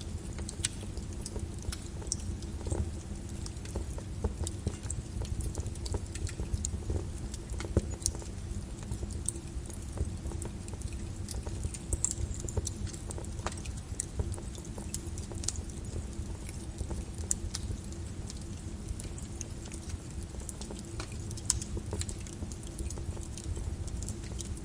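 Flowing lava crackling: scattered sharp cracks and clinks as the cooling crust breaks, over a steady low rumble.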